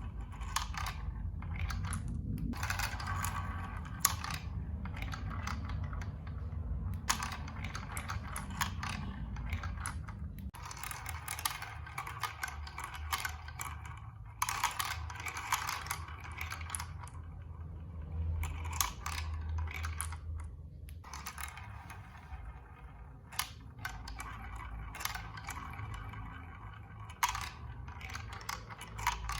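Plastic marble run building blocks clicking and clattering in stretches of a few seconds with short pauses between them, over a steady low rumble.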